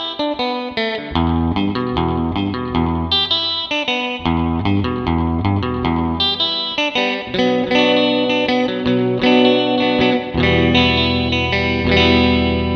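Squier Jazzmaster electric guitar played through a spring reverb pedal: a surf-style passage of picked low notes and chords, each ringing out with reverb.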